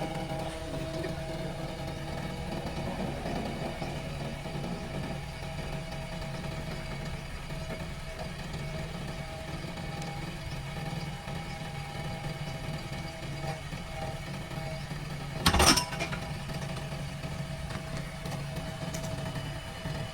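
Backhoe loader's diesel engine running steadily at an even speed, with one sharp knock about three-quarters of the way through.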